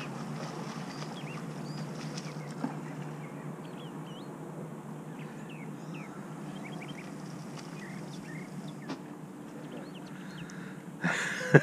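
Many short chirping bird calls over a steady rushing noise. About eleven seconds in, two loud, sharp knocks.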